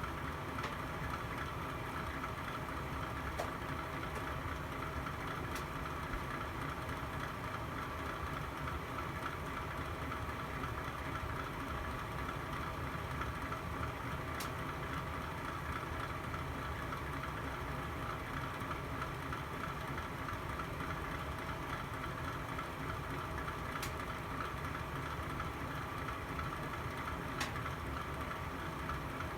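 Log fire burning in a fireplace: a steady rushing with a handful of sharp, isolated crackles spread through.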